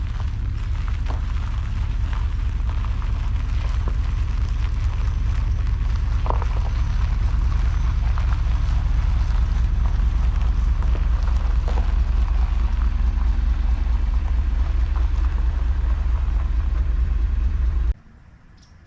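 Steady low engine and road rumble of a 1989 Chevy G20 van on the move, with scattered light clicks and rattles. It cuts off abruptly near the end.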